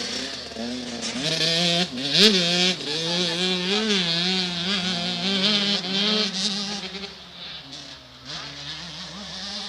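Motocross bike engine revving up and down as the bike rides, its pitch rising and falling with the throttle. It fades away after about seven seconds.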